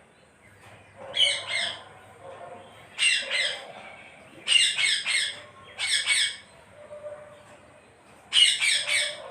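Parrot calling in five loud bouts a second or two apart, each made of two or three quick squawks.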